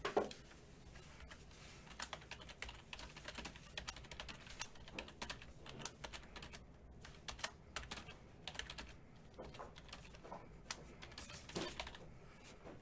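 Typing on a computer keyboard: irregular runs of key clicks, with one louder knock right at the start.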